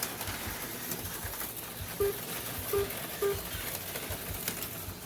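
HO slot cars running laps on the track, a steady whir of small motors and pickups on the rails, with three short low tones about two to three seconds in.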